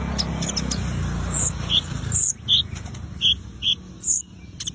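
A sunbird's song of short, high chirps, lower and higher notes alternating at roughly two or three a second, beginning about a second in. A low rumble lies under the first two seconds.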